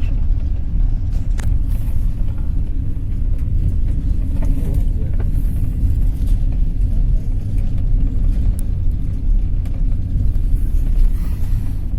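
Passenger train running along the line: a steady low rumble of the wheels on the rails, with a single sharp click about a second and a half in.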